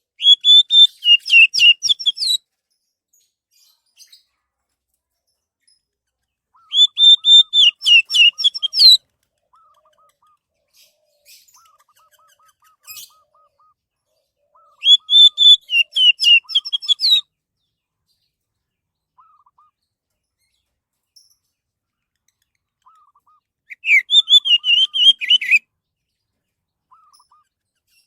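Orange-headed thrush (anis merah) singing: four loud phrases of rapid, varied notes, each about two seconds long, with pauses of several seconds between them.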